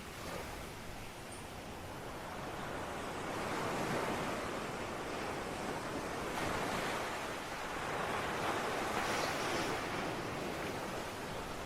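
Ocean waves breaking and washing on a shore, a steady rush of surf that swells and ebbs in slow surges.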